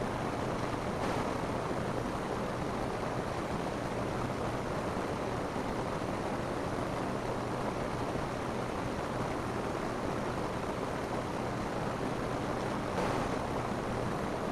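Steady rain falling on a roof, an even hiss of drops that swells slightly about a second in and again near the end.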